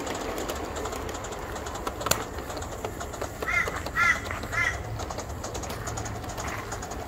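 A bird calls three times in quick succession in the middle, harsh arched calls that are the loudest sound. Underneath, a model New South Wales C38 class steam locomotive running slowly gives a steady hiss with scattered sharp clicks.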